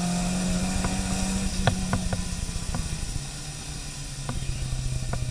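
Car engine running under steady throttle with tyre and spray hiss heard from inside the cabin on a wet track. The engine note drops in pitch and eases about halfway through as the driver lifts off, while the car slips on the wet surface. A few light ticks come through.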